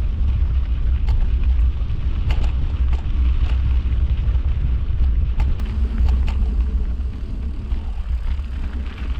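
Mountain bike riding over a sandy, rocky trail with heavy wind rumble on the microphone, and scattered clicks and knocks from the bike and tyres.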